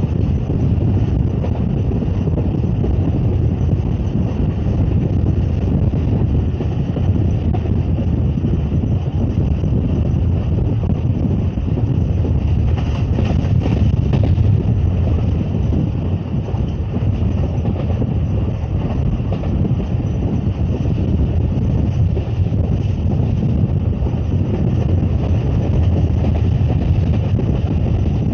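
Steady rumble of a moving passenger train heard from a carriage window, with wind buffeting the microphone.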